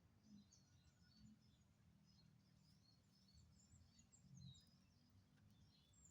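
Faint, high-pitched chirps and twitters of small birds, many short calls scattered throughout, over a low background rumble.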